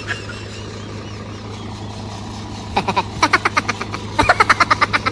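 Tractor-powered threshing machine running with a steady low drone; from about three seconds in, a rapid series of sharp clattering pulses rises over it.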